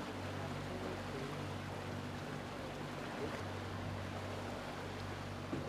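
Steady low hum and rushing water aboard a racing sailboat under way.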